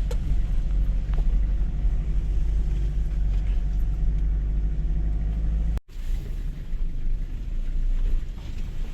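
Vehicle engine and drivetrain rumbling steadily while driving over a rough dirt track. The sound cuts out abruptly for a split second about six seconds in, then the rumble carries on a little quieter.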